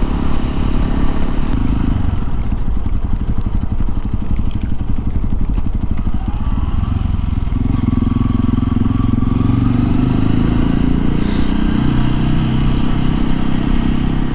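Honda CRF300L's single-cylinder four-stroke engine running as the bike is ridden. The engine note changes about halfway through, then holds steady.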